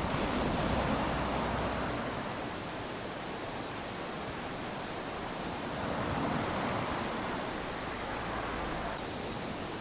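Small waves lapping onto a sandy beach: a steady wash of surf that swells twice, once near the start and again a little past the middle, as each wave runs up the sand and drains back.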